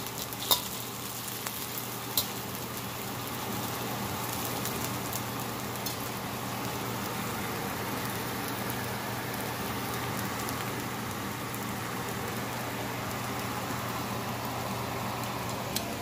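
Chopped onions and green chilies sizzling steadily in hot coconut oil in a stainless steel wok, with a few sharp clicks in the first couple of seconds.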